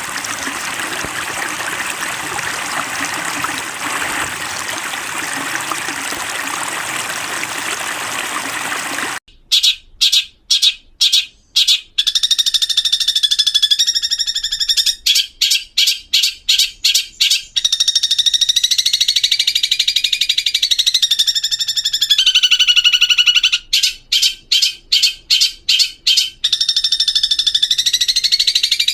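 Steady rush of running water, cut off abruptly about nine seconds in by long-tailed shrike (cendet) song: fast runs of short chattering notes alternating with long gliding whistled notes, repeated to the end.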